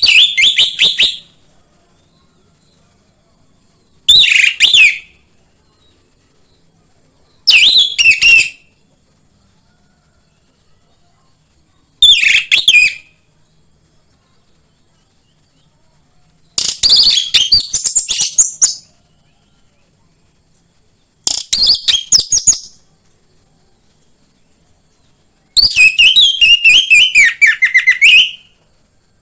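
Orange-headed thrush singing in seven short, varied whistled phrases with pauses of a few seconds between them; the last phrase, near the end, is the longest. A faint steady high hiss runs underneath.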